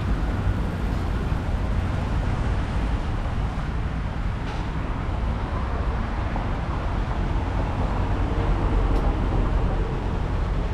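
Steady rumble of road traffic, continuous and without distinct events.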